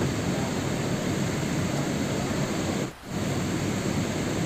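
Steady rain, an even wash of noise with a brief drop-out about three seconds in.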